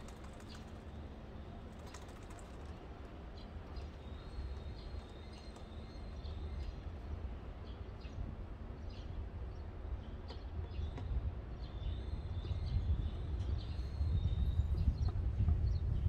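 Small birds chirping now and then in short high calls over a steady low outdoor rumble, which grows louder near the end.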